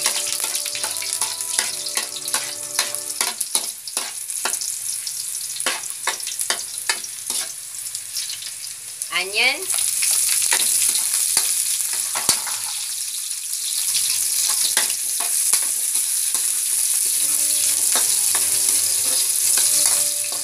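Garlic frying in oil in a metal wok while a metal spoon scrapes and clinks against the pan. About halfway through, sliced onions go into the hot oil and the sizzle grows louder and steadier as the stirring goes on.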